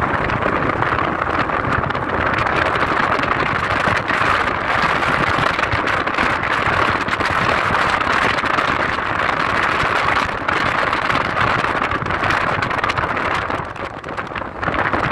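Car driving along a road: steady engine and tyre noise, easing off briefly near the end.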